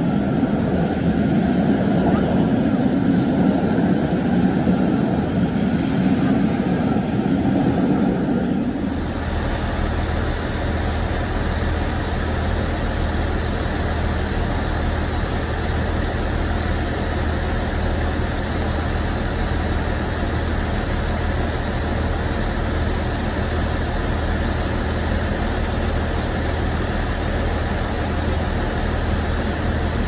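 Railway coaches rolling past on the track with a loud rumble. About nine seconds in this stops abruptly and gives way to the steady low drone of a diesel multiple unit running at a standstill at a platform.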